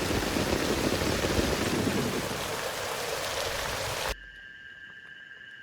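Heavy rain falling in a steady, dense hiss. About four seconds in it cuts off suddenly to a much quieter forest background with two steady high-pitched tones.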